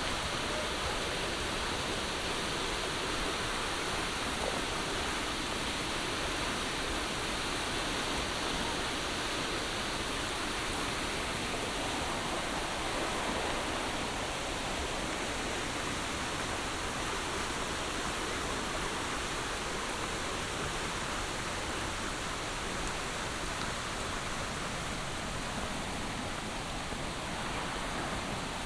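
Steady monsoon rainfall: an even, unbroken hiss of rain.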